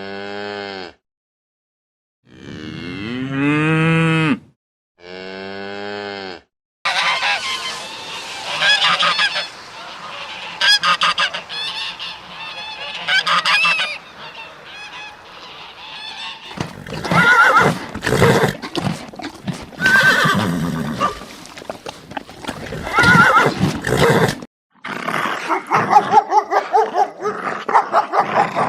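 Cattle mooing three times in long, low calls, then a flock of geese honking, many calls overlapping, with loud single honks in the second half.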